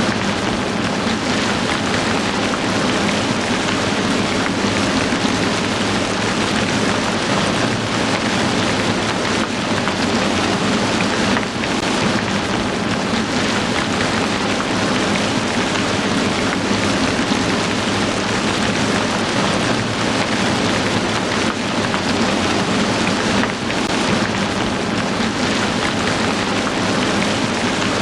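Heavy rain falling steadily: a dense, even hiss of drops on surfaces. Brief small dips in level come about every twelve seconds.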